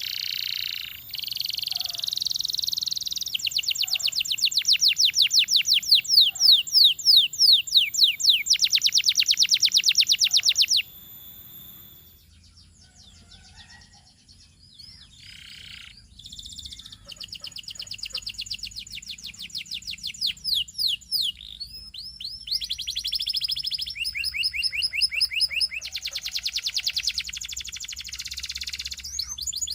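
Domestic canary singing long runs of fast, high repeated trills and rolls. It breaks off about eleven seconds in, with only scattered chirps for several seconds, then resumes with more trilled phrases.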